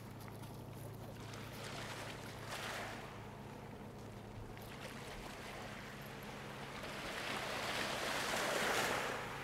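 Small ferry boat's engine running with a steady low hum, and water rushing and splashing around the hull in two swells, the louder one near the end.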